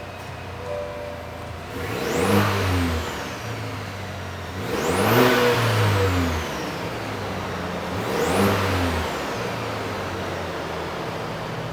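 2023 GMC Canyon AT4X's 2.7-litre turbocharged four-cylinder on its stock exhaust, idling and revved three times, about three seconds apart, each rev rising and falling back to idle. It has the thin, quiet note that is said to sound like a vacuum cleaner.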